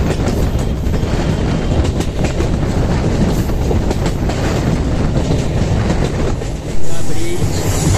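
Passenger train running along the track, heard from aboard a coach, with the clatter of wheels over the rails; it gets suddenly louder about seven seconds in.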